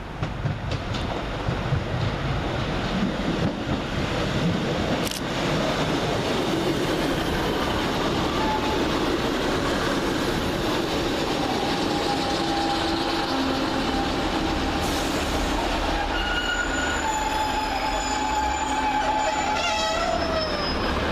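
Two coupled Class 150 Sprinter diesel multiple units running into the station, with engine and wheel-on-rail noise. From about ten seconds in, high steady squeals from the wheels and brakes join in as the train slows. They die away near the end with a short falling squeal.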